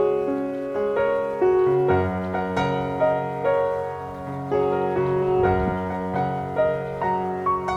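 Gentle piano music, slow notes and sustained chords played one after another.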